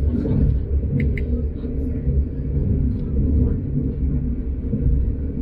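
Train running at speed: a steady low rumble of the running gear, with two short high-pitched squeaks about a second in.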